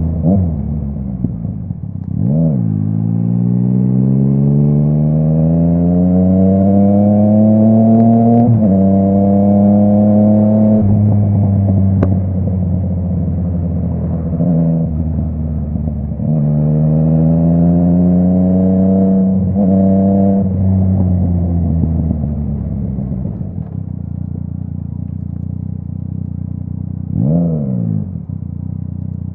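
Yamaha MT-09's inline-three engine through a full Akrapovic exhaust, riding and accelerating: the engine note climbs in pitch through two long pulls with gear changes between, then settles to a steadier, lower note. A quick throttle blip comes near the start and again near the end.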